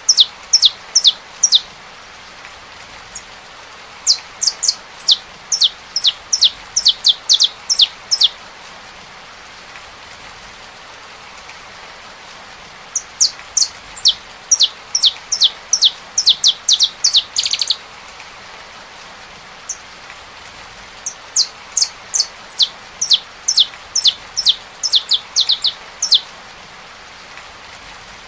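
Saffron finch singing in four phrases of quick, sharp, high notes, each note sweeping steeply downward; the third phrase ends in a short buzzy trill. A steady hiss of rain runs underneath.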